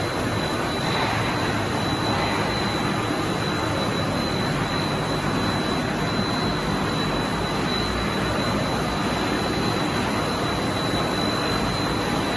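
Machinery of a puffed corn snack production line running: a steady, even mechanical noise with a constant high-pitched whine over it.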